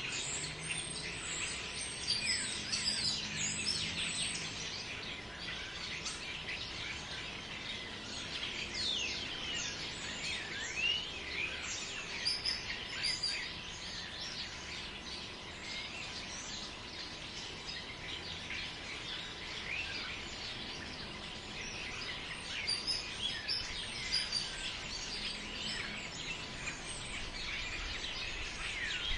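Forest ambience: many birds chirping and calling all through, in busier spells now and then, over a steady hiss of wind in the trees.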